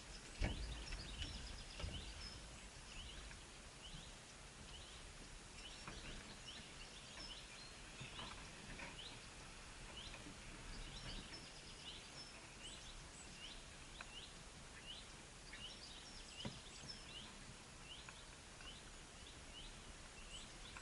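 A small bird chirping over and over, short rising chirps about once a second, over a steady background hiss. A few dull bumps near the start.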